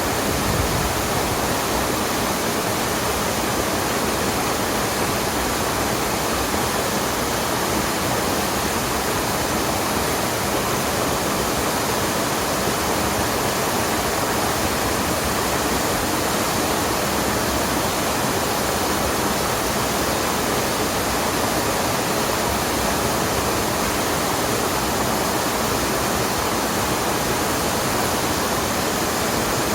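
Rushing water of a mountain stream, a steady, even wash of sound with no breaks.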